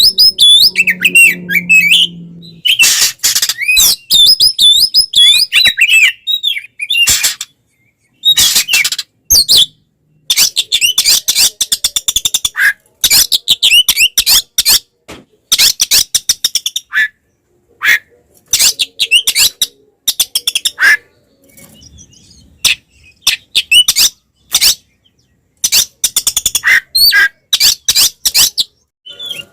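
Oriental magpie-robin (kacer) in full, aggressive 'fighting' song: rapid bursts of varied whistles, warbles and harsh chattering notes, broken by short pauses. This is the agitated territorial song used to provoke other magpie-robins.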